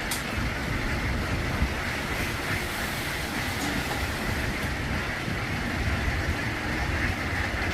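A vehicle running: a steady low rumble with an even hiss, no distinct events.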